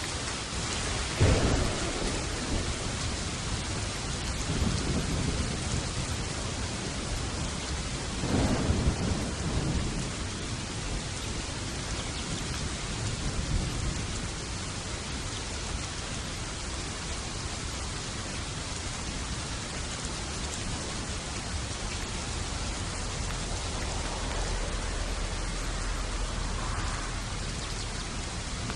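Thunderstorm: steady rain falling, with a sharp thunderclap about a second in that rolls into a rumble, and a second clap and rumble about eight seconds in, then fainter rolling thunder.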